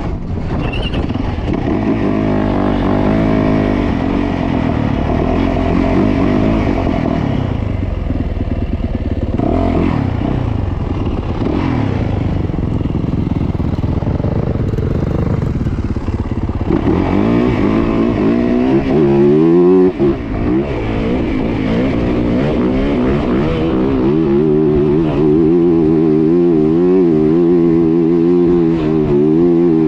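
Dirt bike engine being ridden under throttle, its pitch rising and falling as the revs change. A little past halfway the revs climb sharply several times in a row, then the engine holds a steadier, wavering pitch near the end.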